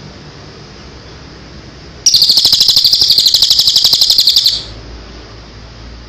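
A songbird singing one loud, fast trill of about ten notes a second, lasting about two and a half seconds, over a steady high hiss.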